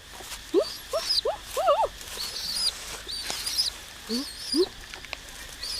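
Birds calling: short calls that rise in pitch come in quick runs of two to four, mixed with higher, thinner chirps that repeat.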